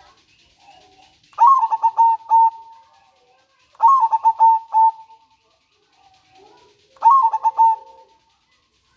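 Zebra dove (perkutut) cooing: three song phrases a couple of seconds apart, each a quick run of short stuttering notes that settles into a longer note.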